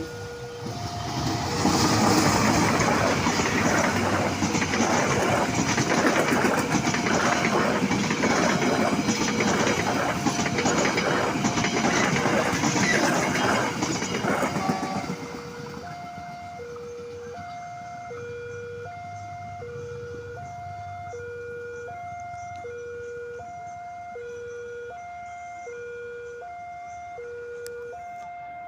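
Passenger train passing close by for about fourteen seconds, its wheels clattering on the rails, over a level-crossing warning alarm sounding a steady two-tone ding-dong about once a second. Once the train has gone, the alarm carries on alone.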